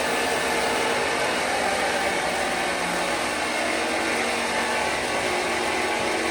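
A motor-driven machine running steadily and loudly at an even pitch, the kind of noise a woodworking power tool makes while it runs.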